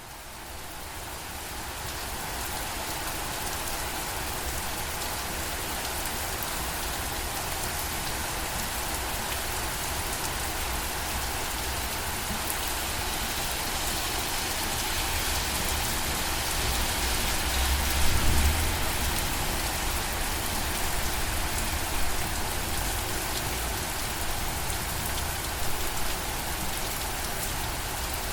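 Steady rain falling on a surface, an even dense patter that fades in over the first two seconds. There is a brief low rumble about two-thirds of the way through.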